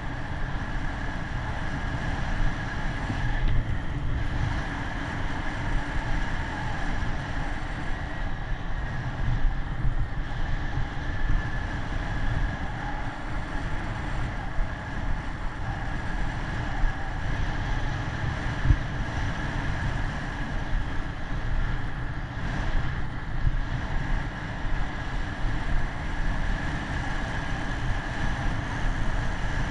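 Wind rushing over the microphone and road rumble while riding a bicycle, steady and unbroken, with a steady high whine over it.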